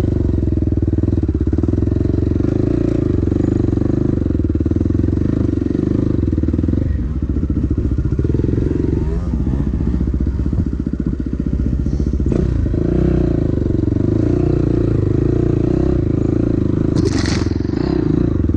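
Dirt bike engine running continuously while riding, the note easing off for a moment about halfway through before picking up again. A short knock about two-thirds of the way in.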